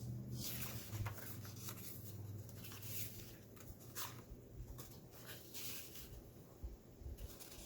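Paper pages of a thick handmade junk journal being turned and handled: scattered rustling and brushing of paper with light taps. A faint low hum fades out about three seconds in.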